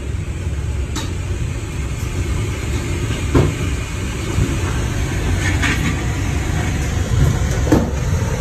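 Tornado wind roaring and buffeting the microphone, a loud steady low rumble, with a few sharp knocks over it.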